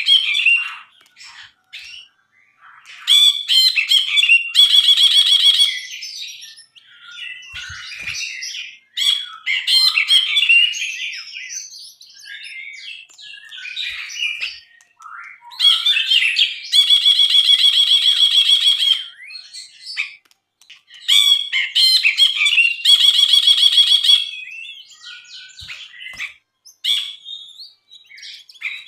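A brinji bulbul singing a varied run of chattering, whistled phrases. Three long, fast rattling trills come through it, and these are the loudest parts.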